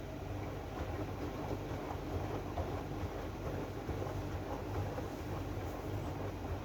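AEG washing machine running its drum-clean programme: a steady low hum with an even rumbling, rustling noise over it.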